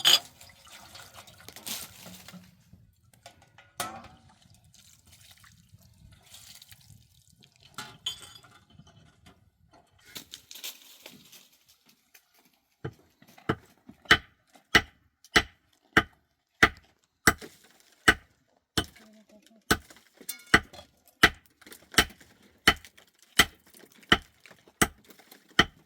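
Scattered light clinks and handling noises, then, from about halfway through, a steady run of sharp strikes at about one and a half blows a second, like chopping or hammering.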